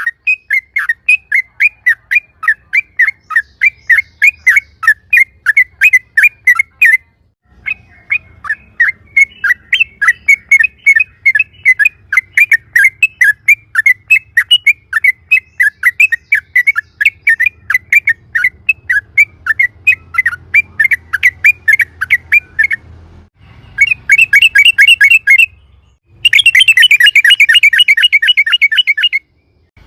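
Yellow-vented bulbul (trucukan) singing a long, loud series of rapid repeated chirps in its rolling 'ropel' song. Two brief breaks interrupt it, and near the end it runs into a faster, denser string of notes.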